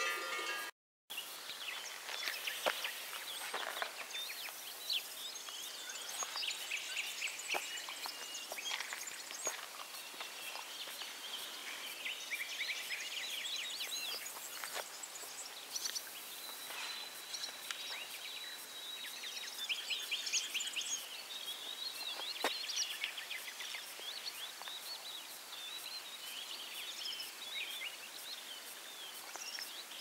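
Outdoor field ambience with small birds chirping and trilling on and off throughout, and a thin, steady high whistle lasting a few seconds around the middle.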